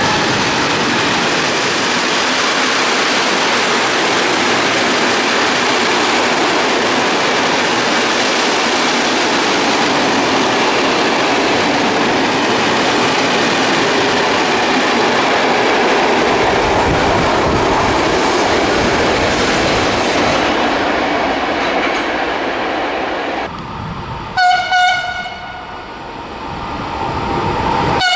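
Freight train of flat wagons loaded with marble blocks rolling through the station, a steady rumble and clatter of wheels on rail. Then an Italian E652 electric locomotive sounds its horn in two short blasts, and again near the end as it approaches.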